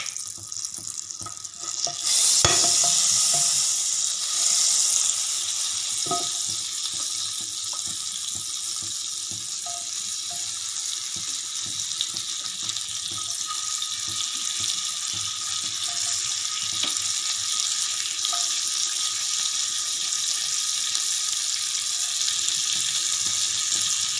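Sliced onion and green capsicum frying in hot butter in a pan: a steady sizzling hiss that jumps up sharply about two seconds in as the onion goes into the butter, with a couple of light knocks in the first few seconds.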